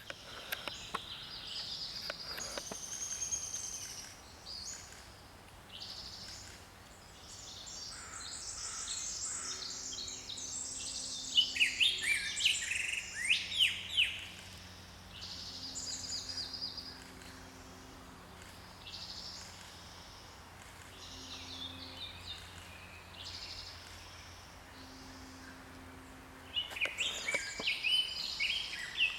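Small songbirds chirping and calling in many short, quick notes, busiest in the middle and again near the end, over steady outdoor background noise.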